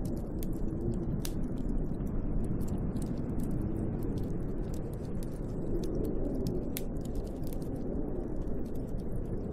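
Snowstorm wind blowing against a cabin, a dense low rush with a faint howl that rises and falls in pitch. Scattered light crackling clicks run over it.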